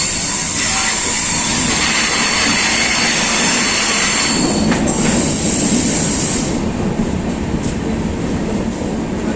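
Passenger train running along the track, a steady dense rumble and rattle of wheels and carriage. A thin high whine rides on top and drops away about two-thirds of the way through.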